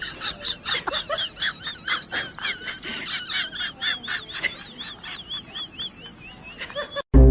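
Rapid high-pitched animal chirping with warbling trills, several calls a second, stopping abruptly near the end.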